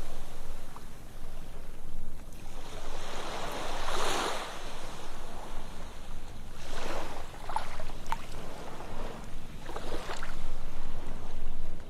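Ocean waves breaking and washing on a beach, each surge of surf swelling and fading over a few seconds.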